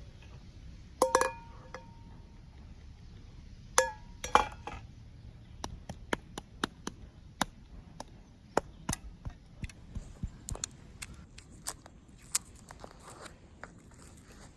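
Cookware or dishes clinking three times, each with a short ringing tone, then a run of quick, irregular knife chops on a cutting board.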